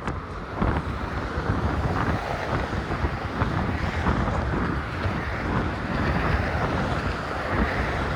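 Strong wind buffeting a phone microphone half-covered by a sock: a steady, heavy low rumble, with the noise of road traffic mixed in.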